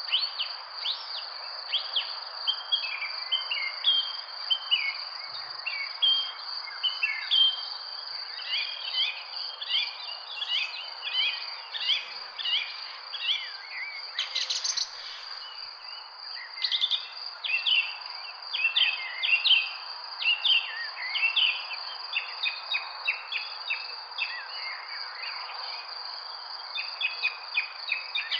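Several birds chirping and singing in quick short calls that overlap throughout. Under them runs a continuous high insect trill and a steady background hiss.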